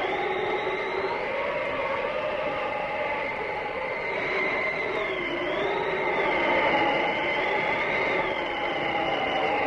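Blizzard wind howling steadily, with whistling tones that waver up and down in pitch.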